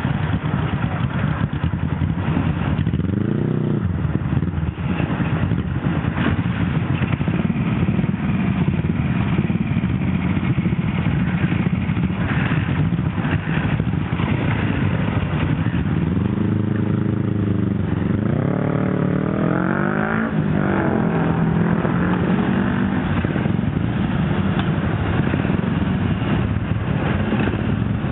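Classic motorcycle engines running steadily, with a brief rev about three seconds in and a longer run of revs, rising and falling several times, from about the middle to two-thirds of the way through.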